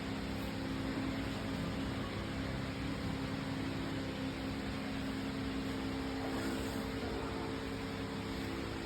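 Joyance remote-control lawn mower's engine running steadily at a constant speed, an even hum.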